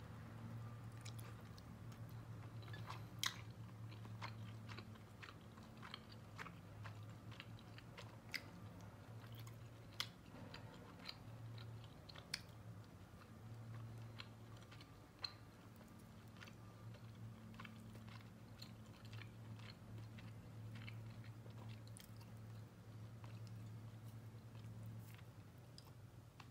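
A person chewing a mouthful of udon noodles with minced pork, close to the microphone: soft, wet mouth clicks and smacks at irregular moments, a few of them sharper. A low steady hum underneath.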